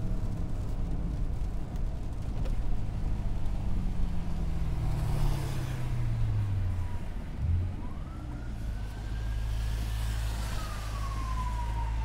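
BMW M3's S65 4.0-litre V8, on an aftermarket exhaust, coming down in revs as the car slows, then idling low. Tyres hiss on the wet road. From about two-thirds of the way in, a siren wails up and down in the distance.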